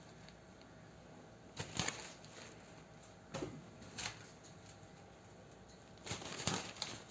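A few short rustling scuffs as a cat grapples and paws at a person's hand: one pair close together, two single ones, then a longer scuffle near the end.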